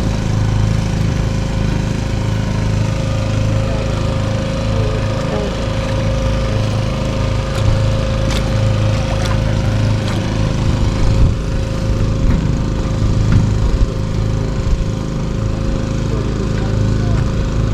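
An engine running steadily: a continuous low drone with a constant hum above it, with a few faint knocks and clicks on top.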